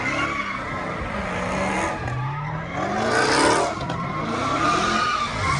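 Car engines revving in rising and falling sweeps while tyres squeal on pavement, as in burnouts or donuts. The loudest rev is about three seconds in.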